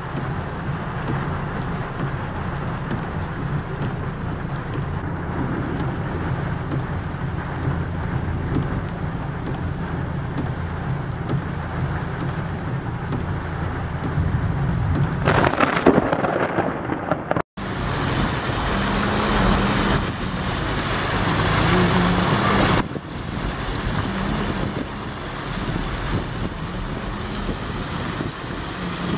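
Heavy rain in a thunderstorm, with a steady low rumble beneath it and wind on the microphone; the sound swells for a couple of seconds past the middle, breaks off for an instant, then comes back brighter and louder.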